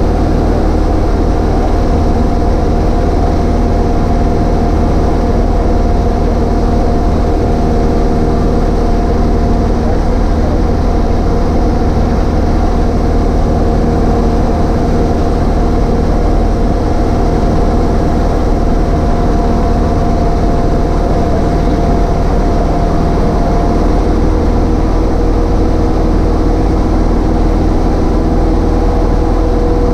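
Cessna 152's four-cylinder Lycoming O-235 engine and propeller running steadily in flight, heard as a loud, even drone inside the cockpit. About three quarters of the way through, one of the steady tones in the drone fades out and a lower tone grows.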